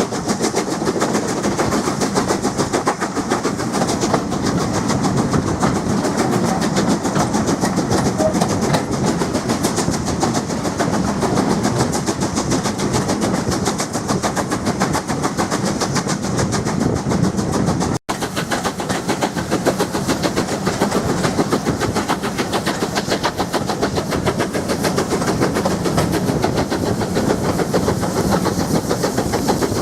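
Heritage railway train running, with a fast, even rhythm of beats throughout, broken by a sudden cut and a brief dropout about two-thirds of the way through.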